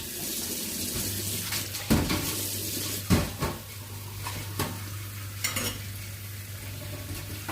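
Food sizzling in a frying pan, with several sharp clanks of a utensil or pot. A steady low hum comes in about a second in.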